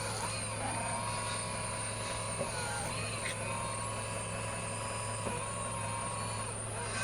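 Linde E16C electric forklift switched on and running: a steady low hum with a high electric whine that dips and rises in pitch a few times.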